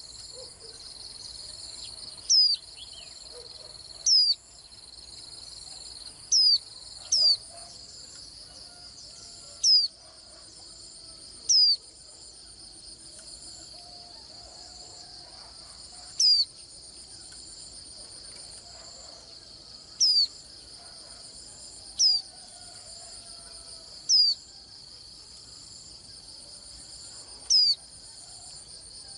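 A white-eye giving short, sharp chirps, about eleven of them, a second or few apart, each much louder than the background. Underneath runs a steady, high, insect-like trill.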